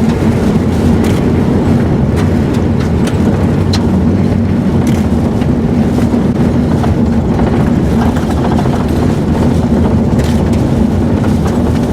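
Steady hum of a car driving, heard from inside the cabin, with strong wind noise over it and a few scattered ticks against the body.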